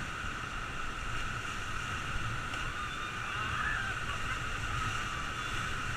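River water rushing steadily around a raft, a continuous even wash, with a low rumble of wind on the microphone.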